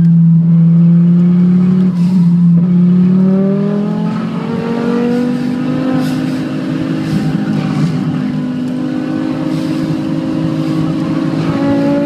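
Turbocharged Audi 90 quattro 20v's inline five-cylinder engine under hard track driving, heard from inside the car. It holds steady revs for the first two seconds, then pulls with its pitch rising steadily as the car accelerates out of the corner.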